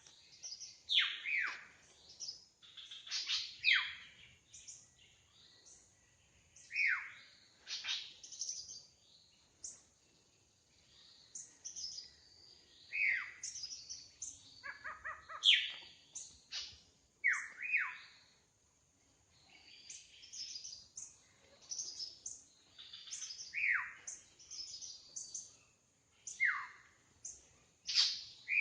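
Drongo singing: a varied series of sharp, falling whistled notes and short chattering phrases, repeated every second or two with brief pauses.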